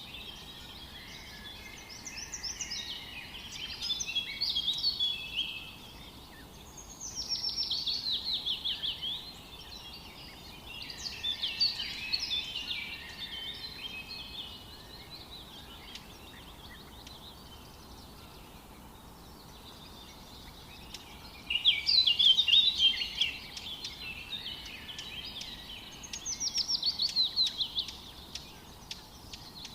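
A songbird singing in short phrases of quick notes a few seconds apart, some phrases a falling series of notes, with a long pause in the middle, over faint steady background hiss.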